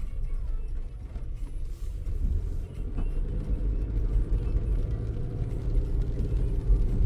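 A car driving, heard as a steady low rumble of engine and tyres on the road. There is little high-pitched hiss, so the rain is not prominent here.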